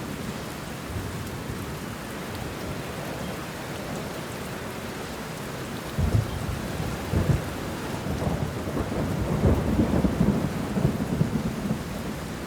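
Steady rain falling on banana leaves and bushes, with thunder joining about halfway through: two short claps, then a longer rolling rumble near the end.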